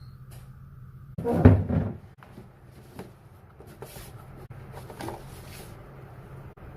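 Handling sounds: a loud clunk about a second and a half in, then a few light clicks, over a faint steady low hum.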